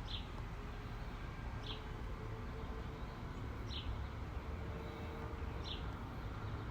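Leaking rainwater dripping, single drops landing about every two seconds over a faint steady low background noise.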